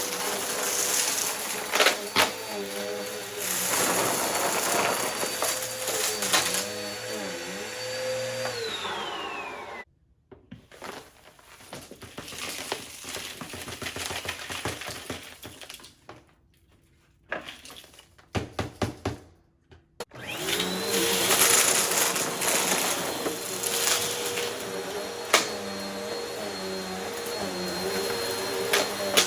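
Bissell upright vacuum running with a steady whine over rugs strewn with mess-test debris, scattered clicks of debris going up the nozzle. It is switched off about nine seconds in and its motor winds down. After about ten seconds of clicks and rustles it is switched back on and runs up to speed again.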